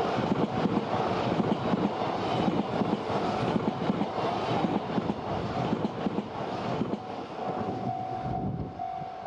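E3 series Shinkansen train passing close by: a loud rumble with rapid clatter of wheels on rail, fading away near the end as the last car goes by. A beeping tone, about two beeps a second, sounds behind it.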